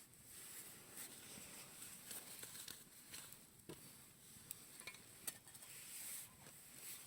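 Campfire burning quietly: a soft steady hiss with scattered small crackles and pops, the sharpest a little past five seconds in.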